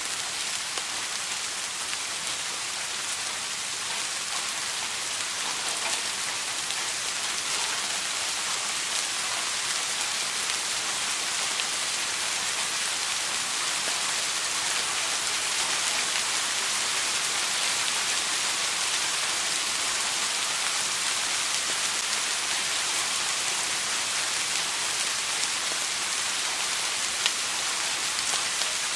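Steady rain: an even hiss of falling rain, with scattered single drops ticking through it.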